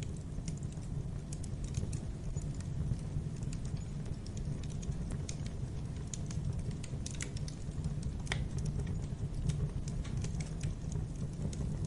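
Wood fire burning in a fireplace: irregular crackles and small snaps over a steady low rumble.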